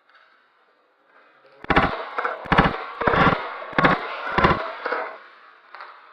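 Airsoft guns firing five short bursts of rapid shots, about half a second to a second apart.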